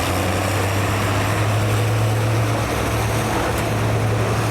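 The engine of a pulling vehicle running loudly and steadily, with an unchanging low drone and no change in pitch.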